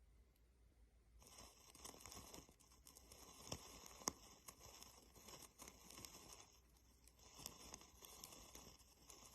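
Faint tearing and crinkling of the wrapping on a roll of hookah charcoal tablets being opened, starting about a second in, with a few sharp clicks as the tablets are handled.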